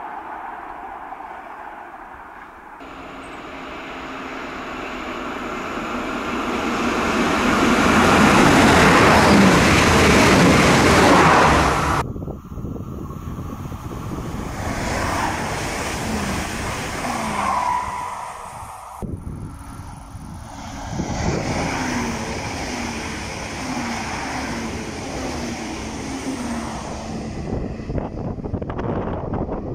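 Diesel trains passing on a main line in three edited takes. The first approaches and goes by at speed, loudest about eight to twelve seconds in, and cuts off suddenly. Two shorter passings follow, the last with evenly repeated beats.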